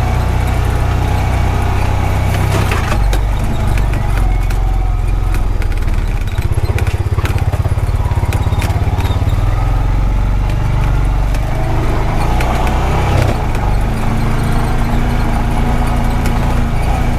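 Honda Pioneer 520 side-by-side UTV running while it drives over a rough dirt track, its engine a steady low drone, with scattered clicks and knocks from the bumps.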